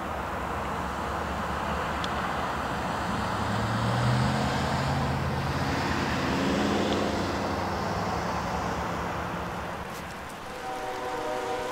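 Canadian Pacific Holiday Train rolling past with a steady rumble of wheels on rail, and a low droning tone that swells and rises in pitch in the middle. Near the end, after a brief dip, a locomotive air horn starts sounding a chord of several steady notes.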